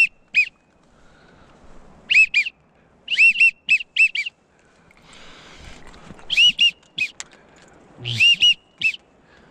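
Duck whistle call blown in quick groups of short, high, arched notes, two to five at a time, with short pauses between groups, used to call in ducks.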